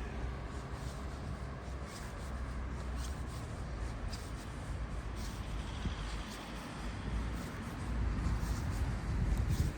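Outdoor street ambience: a steady low rumble with scattered light ticks and scuffs.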